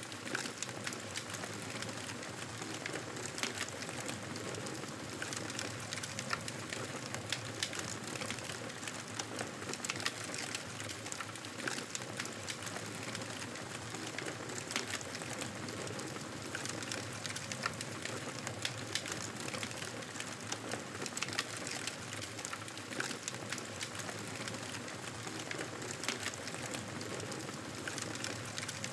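Campfire burning: a steady hiss of flames with frequent sharp crackles and pops of burning wood.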